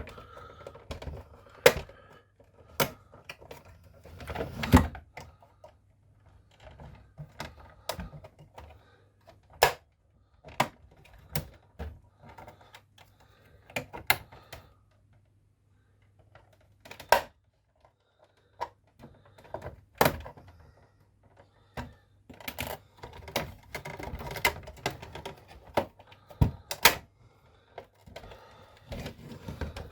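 Irregular sharp clicks and knocks of the casing clips on a Nespresso Citiz coffee machine as its side panels are pried loose, some much louder than others.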